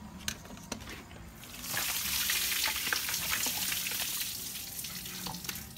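Food frying in hot oil, a loud crackling sizzle that starts suddenly about a second and a half in and eases off near the end. A few light knocks come just before it.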